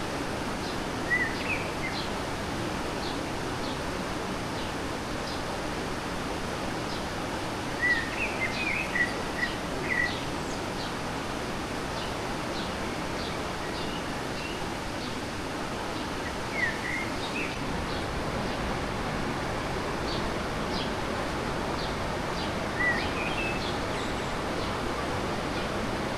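Fast-flowing stream rushing steadily, with a small bird chirping in short bursts a few times: once near the start, in a quick run of calls about eight to ten seconds in, and again around the middle and near the end.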